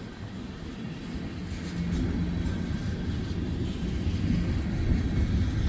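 Freight train tank cars rolling past on the rails: a steady low rumble of wheels on track that grows louder about two seconds in.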